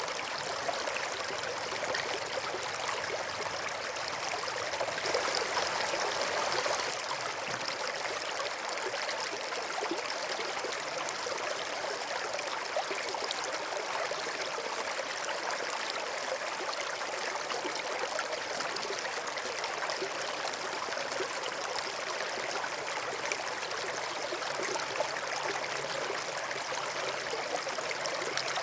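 Creek water flowing and trickling over stones in a steady rush, a little louder for a couple of seconds about five seconds in.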